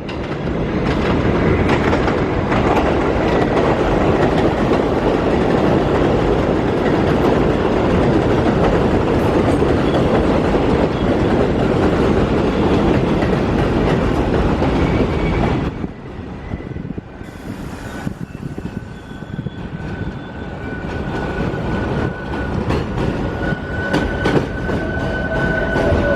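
New York City subway train running on the elevated steel structure: a loud, steady rumble and rattle of wheels on the el for about fifteen seconds. It drops off suddenly, and then a steady high whine rises, growing louder towards the end.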